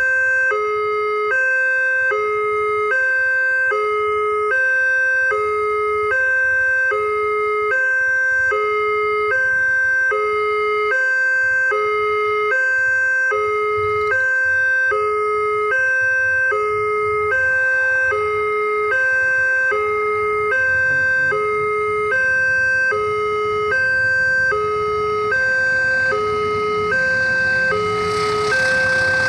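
Railway level-crossing warning alarm sounding: an electronic two-tone signal alternating high and low, about one pair a second, warning that a train is coming. Near the end a broad rushing noise builds under it as the train approaches.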